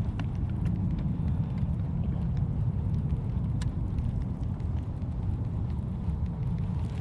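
Wind buffeting the microphone: a steady, fluctuating low rumble, with a few faint small clicks over it.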